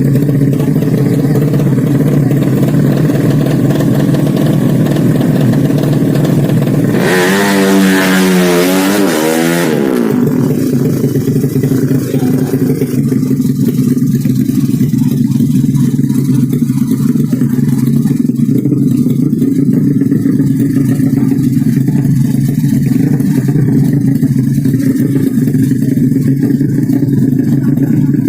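Motorcycle engine running steadily with a low, even drone. About seven seconds in, a racing motorcycle rushes past for about three seconds, its sound sweeping in pitch as it goes by.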